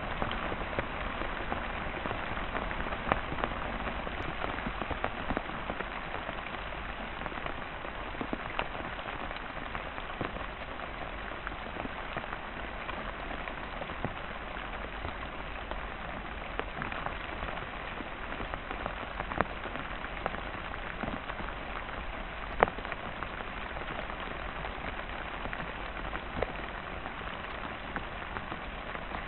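Heavy rain falling steadily, a continuous hiss with sharp drip ticks scattered through it, one louder tick a little over two-thirds of the way in.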